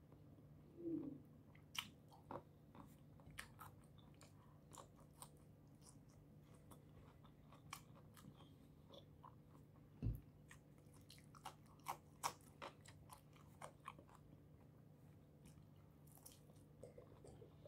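Faint close-up chewing and mouth sounds of a person eating cucumber and seasoned shrimp with her fingers: scattered wet clicks and smacks, with one low thump about ten seconds in.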